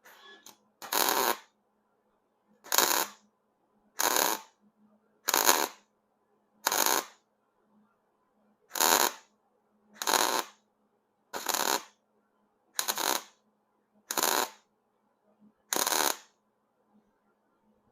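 Wire-feed welder laying a row of short stitch or tack welds: about a dozen crackling bursts, each about half a second long, repeating roughly every second and a half.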